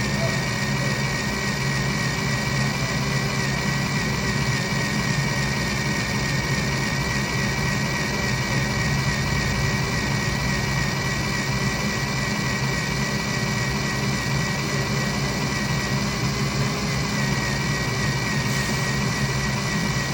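Electric drill running steadily at slow speed, its bit boring out a broken, rusted exhaust manifold stud, with a steady high whine that wavers slightly.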